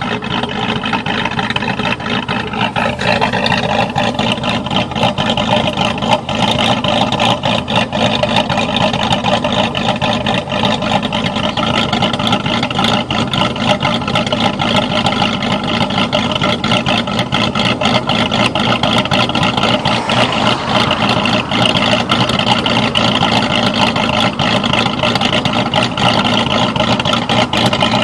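Mercedes-Benz E55 AMG V8 idling with an uneven, hiccuping idle, which the owner calls 'hiccup mode'.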